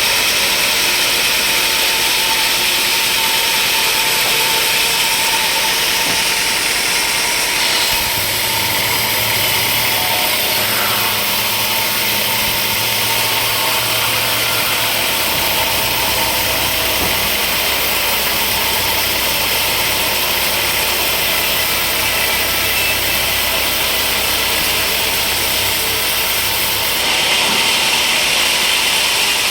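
Sawmill machinery running steadily and loudly, its sound shifting about eight seconds in and again near the end.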